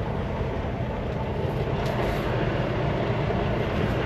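Semi truck's diesel engine running with a steady low rumble as the truck rolls along, heard from inside the cab.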